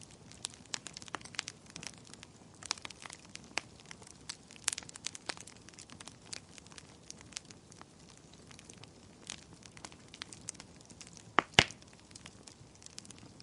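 Wood fire crackling in a fireplace: irregular sharp pops and snaps over a faint steady hiss, with a louder double pop near the end.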